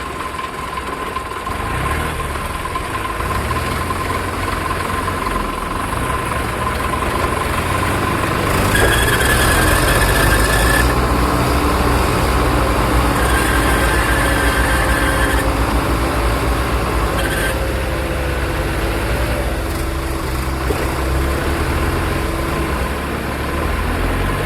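Diesel tractor engine running steadily, getting louder about nine seconds in. High steady tones come and go twice in the middle.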